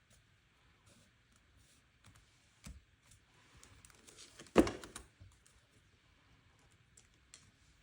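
Scattered small clicks and paper rustles from a planner being worked on with stickers and pens. The loudest is a sharp tap followed by a brief rustle about four and a half seconds in, with a softer thump earlier.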